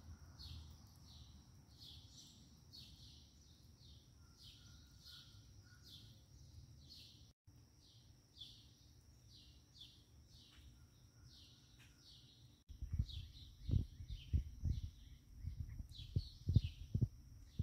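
A bird chirping a quick, evenly repeated series of short downward notes, two or three a second, over a faint steady high whine. About two-thirds of the way in, loud, irregular rustling and thumps close to the microphone take over.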